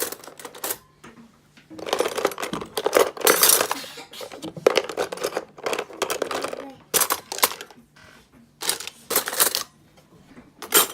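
A metal spoon clinking and scraping against a pot and bowls as porridge is dished out: a run of sharp clinks, with longer scraping stretches between them.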